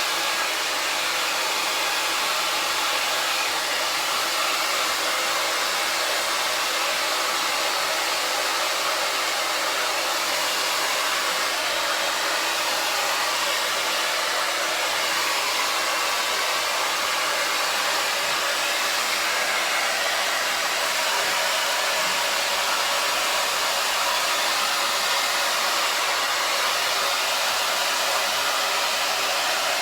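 Hand-held hair dryer blowing steadily, a continuous airy hiss with a motor hum underneath, used to dry a small dog after its bath.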